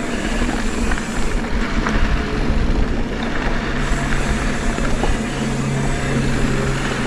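Mountain bike riding on a dirt trail: wind rushing over the camera microphone with tyre rumble and rattling from the bike. A steady low hum comes in about three and a half seconds in.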